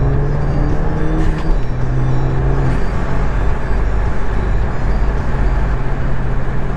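Ford Focus ST's engine running steadily with road and tyre noise, heard from inside the cabin while driving; the engine note eases off about three seconds in.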